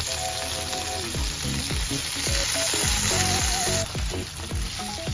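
Pork-wrapped pieces sizzling in hot oil in a frying pan. The sizzle eases about four seconds in. Light background music plays underneath.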